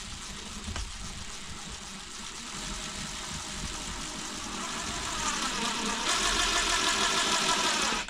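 Power drill running steadily, drilling or driving screws into the cabin wall to mount a coat hook. It grows louder over the run and takes on a stronger hum about six seconds in, then stops abruptly.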